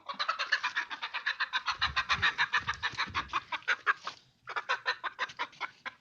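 Chicken squawking in a rapid run of short alarm calls, about nine or ten a second, breaking off briefly about four seconds in and then starting again: a frightened bird being chased.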